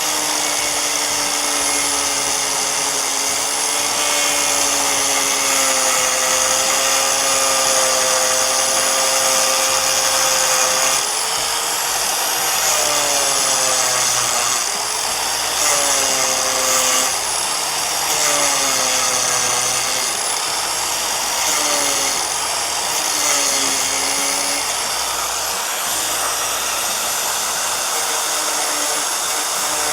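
Small angle grinder running continuously as it cuts into the camper's ABS plastic roof. Its motor pitch dips and recovers again and again in the second half as the disc loads up in the cut.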